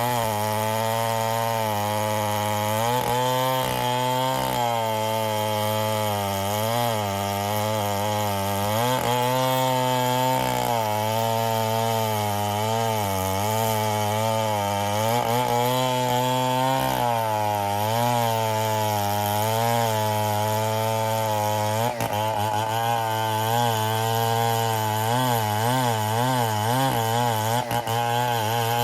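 Stihl 070 two-stroke chainsaw running under load while cutting ironwood into beams. Its engine note wavers up and down continuously as the load on the chain changes.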